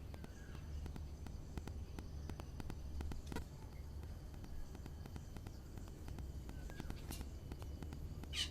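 Birds at a balcony feeder: scattered light pecking taps and a couple of faint short chirps, with a brief sharper high call near the end, over a low steady rumble.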